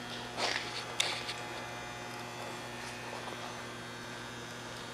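Steady low electrical hum, with a short rustle just under half a second in and a single sharp click about a second in.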